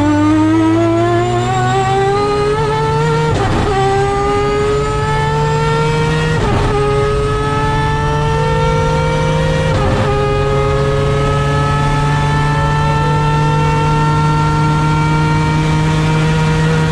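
Three-rotor peripheral-port 20B rotary engine of a Mazda FD RX7 race car under full throttle, heard from inside the car. It climbs in pitch through the gears, with three quick upshifts about 3, 6 and 10 seconds in, then holds a high note that rises only slowly.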